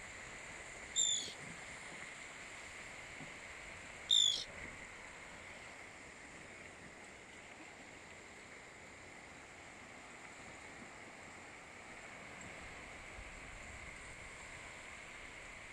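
Two short, high bird calls about three seconds apart, over a steady hiss of gentle surf breaking on a sandy beach.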